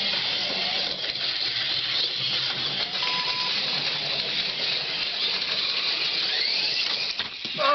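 Small electric motors of 1/43 scale slot cars whirring around a plastic track, rising and falling in pitch as the throttle is worked, with the cars rattling along the track. A short beep sounds about three seconds in, and a brief clatter comes near the end.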